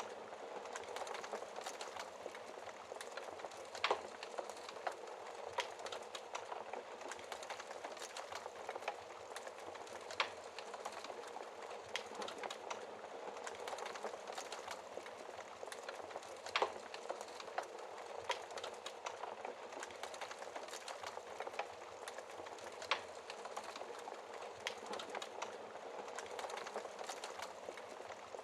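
Fire crackling in a fireplace: a steady hiss with constant small crackles and a few sharper, louder pops spaced about six seconds apart.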